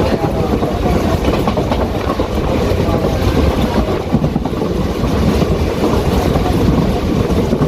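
Passenger train running along the track, heard from inside the carriage: a steady rumble of the wheels on the rails.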